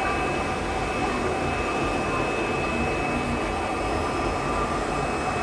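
Blacksmith's forge fire with air blown into it by its blower: a steady rushing noise with a faint high whine.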